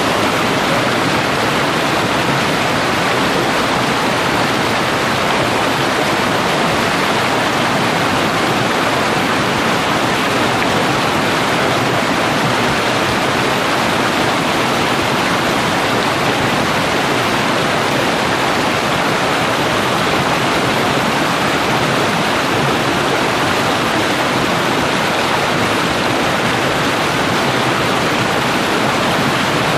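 Fast-flowing trout stream rushing steadily, a loud, unchanging wash of water.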